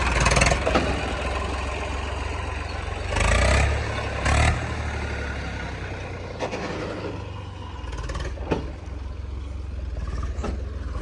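Diesel engine of heavy farm or earthmoving machinery running steadily, with two short louder surges about three and four seconds in, and a few sharp knocks later on.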